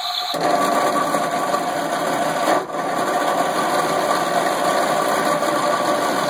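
Circuit-bent toy washing machine's sound chip putting out a dense, steady electronic noise with a few held tones in it, cutting in about half a second in and dipping briefly near the middle.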